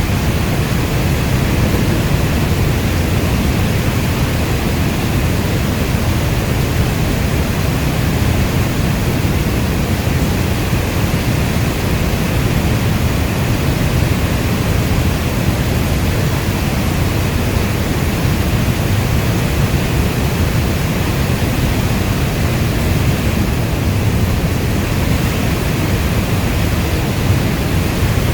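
Steady heavy rainfall ambience: a dense, even rush of noise with a strong low rumble. No separate drops, thunder or changes stand out.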